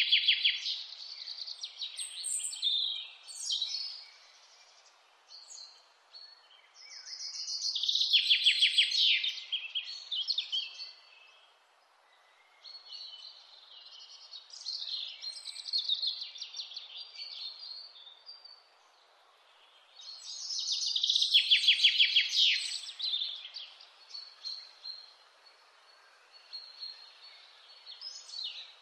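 Wild songbirds singing in the mountains. A loud, rapid trilling phrase lasting two to three seconds comes about every six to seven seconds, with quieter chirps between, over a faint steady hiss.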